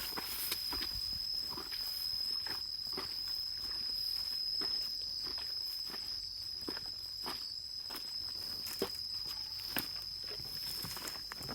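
A steady high-pitched insect call, like a cricket or cicada, runs unbroken under irregular footsteps and rustling knocks on forest ground.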